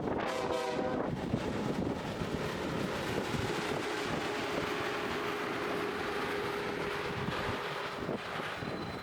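Amtrak passenger train passing at speed on the Northeast Corridor: a steady rush of wheel and air noise, with a faint steady whine in the middle and wind buffeting the microphone.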